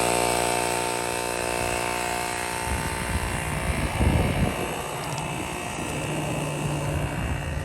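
Motorcycle engine idling steadily, then pulling away about three seconds in, the sound turning rougher and noisier as the bike gets moving, with a brief louder swell about a second later.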